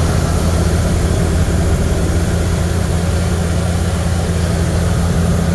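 1979 Ford Thunderbird's V8 engine running steadily at idle on its own, sounding healthy now that its new fuel pump, lines and sending unit are feeding it fuel.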